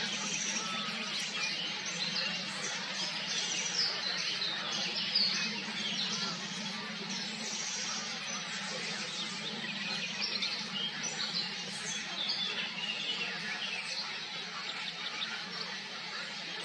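Many songbirds chirping and singing at once in a busy, continuous chorus of short high calls and trills, over a steady low hum.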